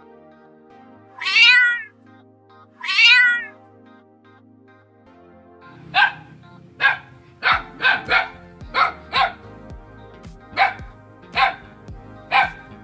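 A cat meows twice, two loud drawn-out meows. About halfway through, a dog starts barking: a run of about ten short, sharp barks. Background music plays throughout.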